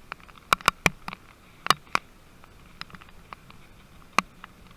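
Heavy rain, with big drops striking close by as irregular sharp taps, a few a second, over a faint steady hiss of rainfall.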